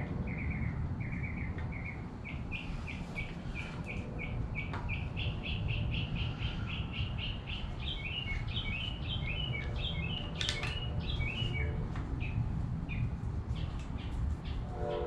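A small bird chirping in long rapid runs of short, high notes, several per second, over a steady low rumble, with one sharp click about ten and a half seconds in.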